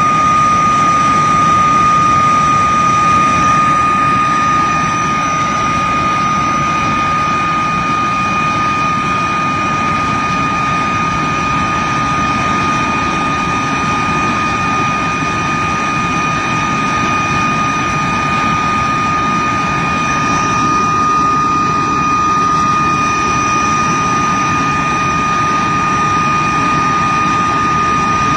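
De Havilland Vampire's Goblin turbojet running steadily on a ground run: a high, steady whine over a heavy rushing roar, easing slightly in loudness about four seconds in.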